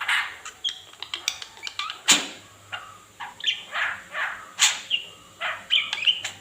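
Pet lovebird chattering in a quick run of short, squeaky chirps and calls, with two sharp, louder notes about two seconds and four and a half seconds in.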